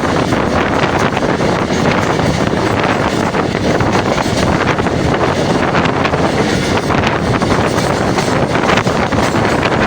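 Passenger train running steadily along the track, with a dense rumble and rattle of the moving train and wind buffeting the microphone.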